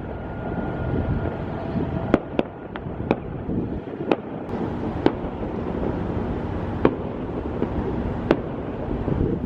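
Distant fireworks going off: about eight sharp, irregularly spaced bangs and cracks over a steady low rumble of wind on the microphone.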